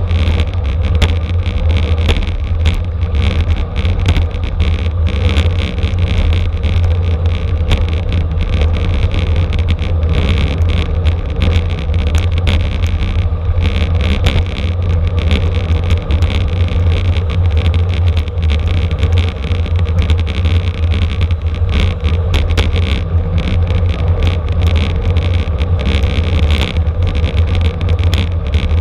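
Steady rumble of road and wind noise from a bicycle ridden at race speed, heaviest in the low end, with small ticks and rattles running through it.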